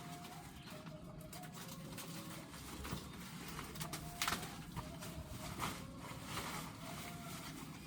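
Faint birdsong: a dove cooing in short, low, repeated notes, with scattered clicks and taps.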